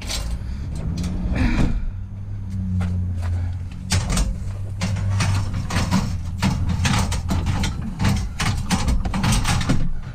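Scrap metal being handled and loaded into a vehicle: repeated knocks, bangs and scrapes, thickening from about four seconds in, over a steady low hum.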